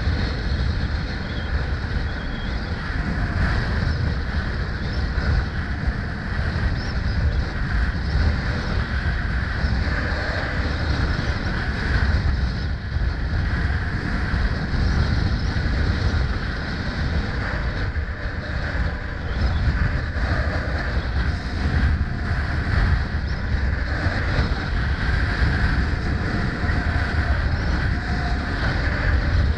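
Wind buffeting the microphone during a ride, over steady road and traffic noise with no pauses.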